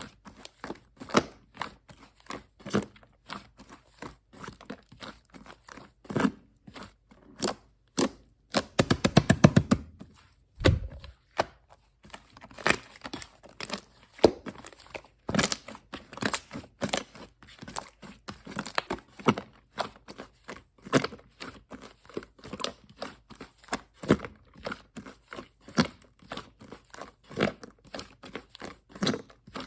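Purple shaving-foam slime being squeezed and stretched by hand, making irregular sticky crackles and pops several times a second. About nine seconds in there is a quick run of clicks.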